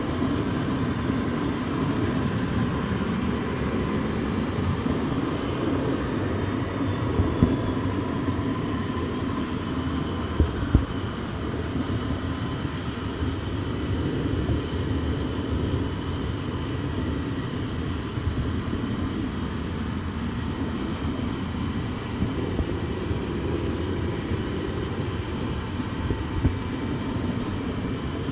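A train running on the rails: a steady low rumble, with a few short sharp knocks and faint steady high tones over it.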